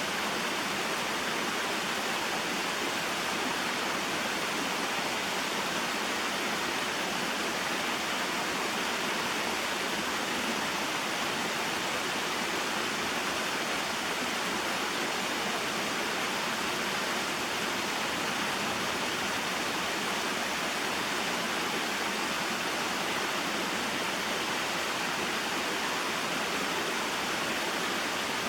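Small waterfall and mountain stream: water falling and flowing steadily in an even, unbroken rush.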